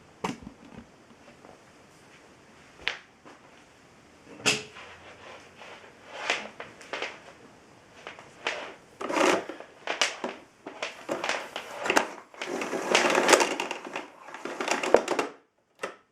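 Irregular handling noises: scattered clicks and knocks, then denser scraping and rattling bursts in the second half, with no motor running.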